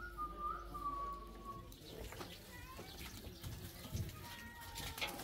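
A single thin whistled bird call, held for about a second and a half with a slight rise and fall in pitch, then scattered light clicks and taps.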